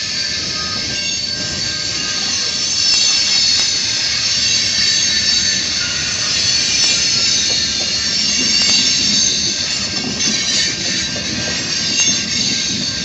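Freight cars of a Norfolk Southern manifest train rolling past with a low rumble, their wheels squealing in several high, steady tones.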